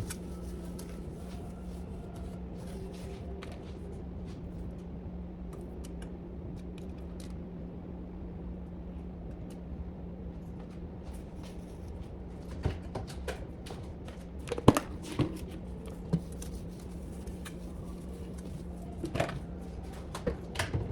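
Kitchen food-prep handling: light clicks, knocks and rustling at a counter over a steady low hum, with the sharpest knocks about two-thirds through and again near the end.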